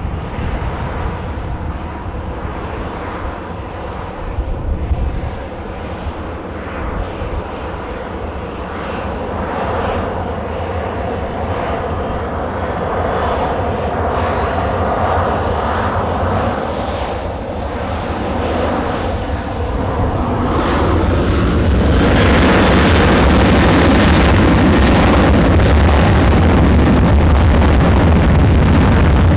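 Airliner engines on a takeoff run. Steady engine noise carries a faint rising whine, then about two-thirds of the way in it jumps to a much louder full-power sound as the aircraft passes close.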